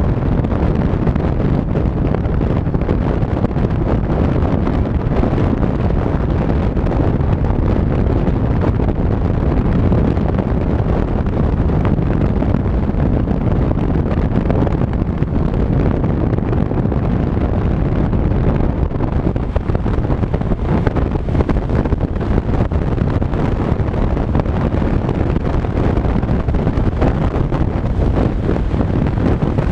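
Steady wind buffeting on the microphone with a dense low rumble, the way it sounds while riding on a moving scooter.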